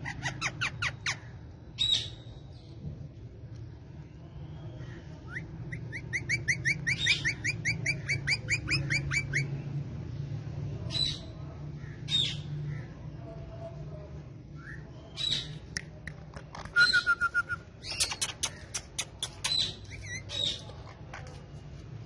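Indian ringneck parakeet calling: sharp, high squawks scattered throughout, with a fast run of about sixteen repeated chattering notes, some four a second, from about five seconds in.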